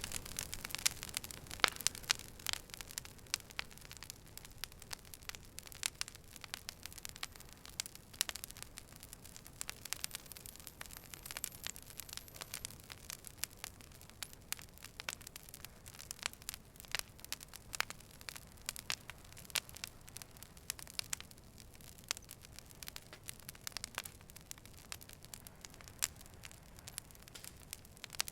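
Wood fire burning with a steady stream of irregular sharp crackles and pops over a soft low hiss, busiest in the first couple of seconds.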